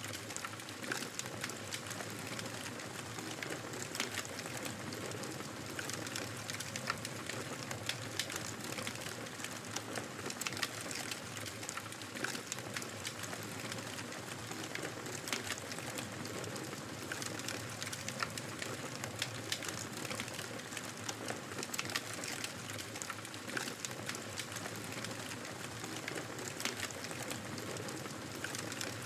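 Wood fire burning in a fireplace: a steady soft hiss with many small, irregular crackles and pops.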